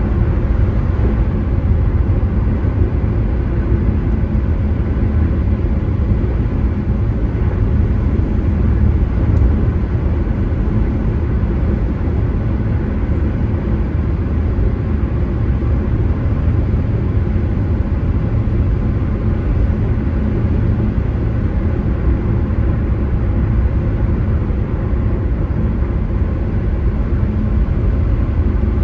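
Road noise of a moving car: a steady low rumble of tyres and engine.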